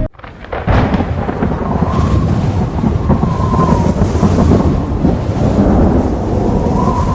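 Thunderstorm: a loud, continuous rumble of thunder with a rain-like hiss, swelling up within the first second and then holding steady.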